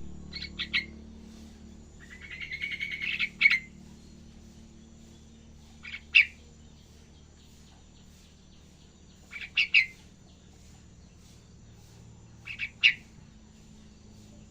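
Young yellow-vented bulbul practising its song: short chirpy bursts a few seconds apart, with one longer rapid chattering phrase about two seconds in.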